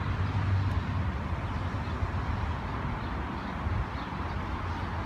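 Train running through the station: a steady low rumble with a hiss.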